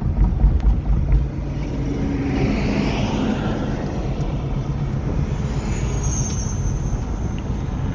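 Road and engine noise heard from inside a car driving on a highway: a steady low rumble with heavy low buffeting in the first second, and a swell of noise about two to three seconds in.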